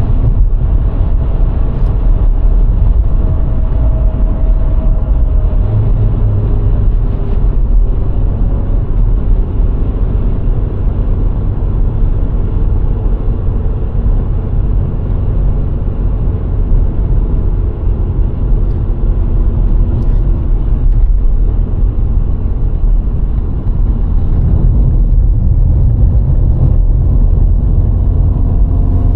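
VW Golf IV with a 1.6-litre four-cylinder petrol engine driving along a road: a loud, steady low rumble of tyres and road noise, with the engine's hum drifting slightly in pitch.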